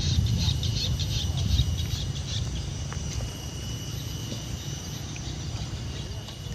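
Lakeside wildlife: quick, rapid bird chirps for the first couple of seconds over a steady, high insect drone, with a low rumble underneath.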